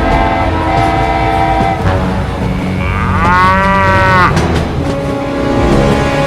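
Steady held horn-like tones, then about three seconds in a single long moo that rises and falls in pitch, over a low rumble.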